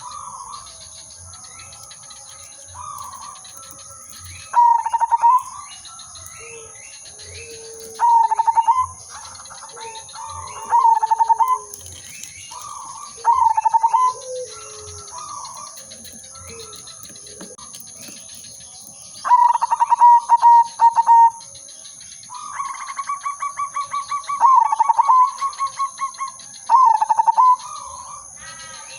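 Zebra dove (perkutut) cooing: short phrases of rapid pulsed coos that end in a ringing note, repeated every two to three seconds, with a longer pulsed run of coos about three-quarters of the way through. Fainter chirping sounds over a steady high hiss.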